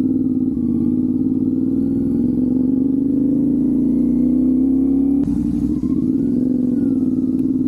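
CFmoto 450SS parallel-twin engine pulling hard through a gear. Its pitch rises steadily for about five seconds, drops suddenly at an upshift, then climbs again.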